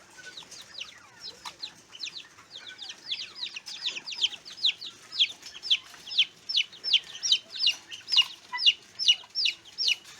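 Young poultry peeping: a run of short, falling peeps, about three a second, growing louder a few seconds in.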